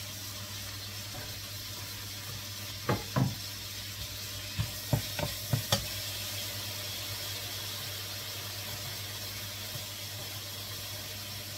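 Bacon, garlic and onion sizzling in melted butter in a large cooking pot, a steady frying hiss. Utensils knock against the pot twice about three seconds in and four more times around five seconds in as the food is added and stirred.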